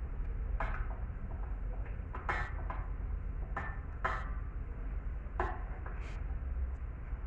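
Metal tools and engine parts clinking and clanking irregularly as an engine is taken apart, over a steady low hum.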